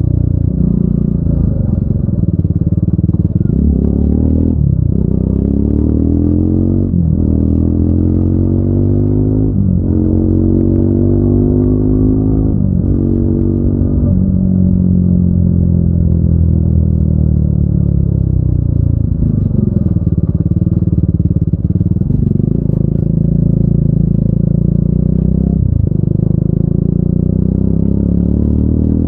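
Triumph Speed 400's single-cylinder engine and exhaust pulling hard through the gears. The pitch climbs and drops at each upshift, four times in quick succession. It then winds down slowly as the bike slows on the throttle, and picks up again through two more shifts near the end.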